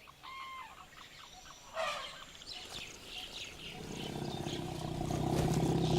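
Wild forest birds calling: short, even whistles and a burst of chirps in the first half. A low, steady hum swells in the second half.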